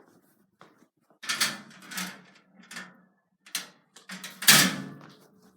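A series of knocks and scuffs, about one a second, the loudest about four and a half seconds in, with a faint low hum under them.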